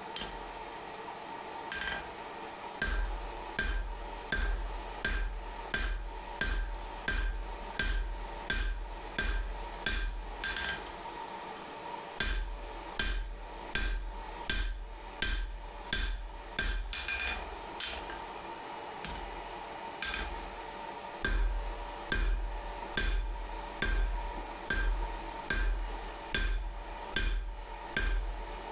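Hand hammer striking hot steel bar on an anvil, at about two blows a second, in three runs with short pauses between them while forging tongs.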